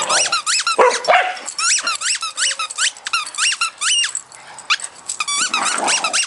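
Dog making a rapid string of short, high-pitched squeals and whines that rise and fall in pitch, a few each second, broken by rougher grumbling growls near the start and near the end.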